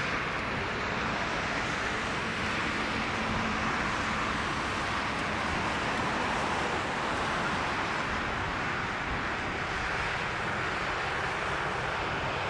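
Steady roar of an airliner's jet engines, heard from outside as an even rushing noise that holds level throughout.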